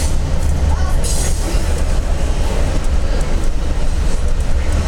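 Freight train passing close by: a trailing diesel locomotive and then boxcars and hopper cars rolling past. There is a steady, heavy low rumble of engines and steel wheels on the rails.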